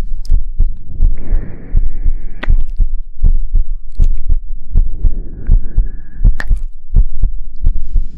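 Soft, low, muffled thumps from patting on the microphone, repeating quickly at two to three a second, with two brief rustling hisses about a second in and again just past the middle.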